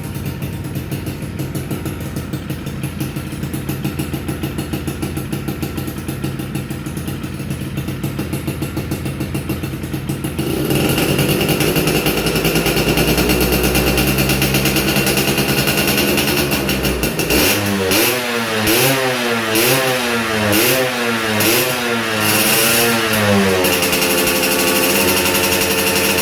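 Suzuki Tornado GS motorcycle's 110 cc two-stroke engine idling steadily, getting louder about ten seconds in. Past the middle it is revved in a string of quick throttle blips, the pitch rising and falling about once a second, then it settles back to a steady idle near the end.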